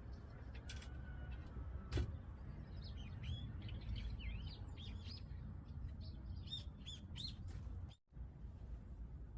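Small birds chirping in quick, twittering calls for several seconds over a low steady rumble, with one sharp click about two seconds in.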